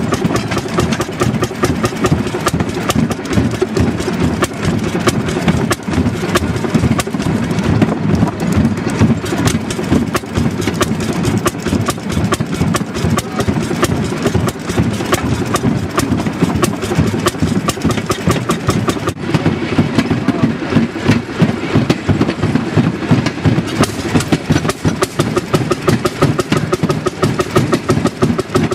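Railroad speeder's old make-and-break ignition engine firing in a rapid, steady run of bangs as the motor car travels along the track, with the car rattling on a rough, noisy ride. A single sharp click about two-thirds of the way through.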